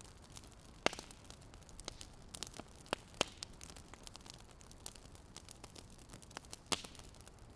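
Wood fire crackling: a steady low hiss with sharp snaps and pops at irregular moments, the loudest about a second in and again near the end.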